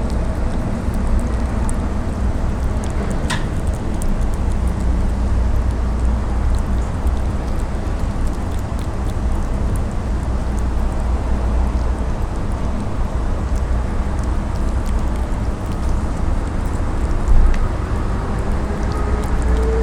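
Steady low rumble of outdoor background noise, with a faint tone slowly rising in pitch near the end.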